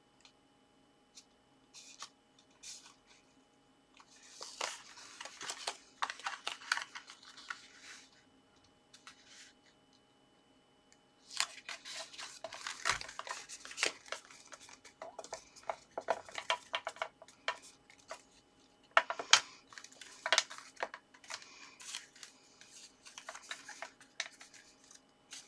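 Paper card being handled and folded: bursts of rustling and crinkling with light clicks, starting about four seconds in, pausing for a few seconds, then running on more steadily with a couple of sharper taps.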